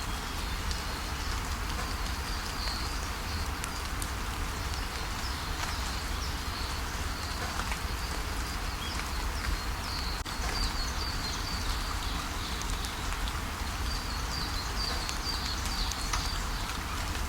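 Steady rain falling, with a low rumble beneath it. Small birds chirp in short high bursts a few times, around the third, tenth and fifteenth seconds.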